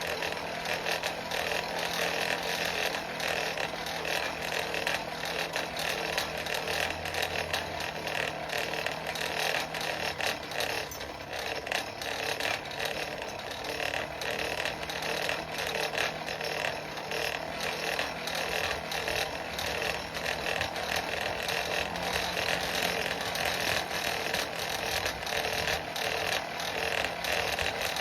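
Blower on a solid-fuel forge running steadily, forcing air through the fire pot while a chain link heats. It makes an even rushing noise over a low steady hum.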